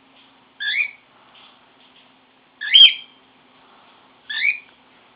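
Pet bird giving three short whistled calls, each a quick glide between high notes, about one and a half to two seconds apart.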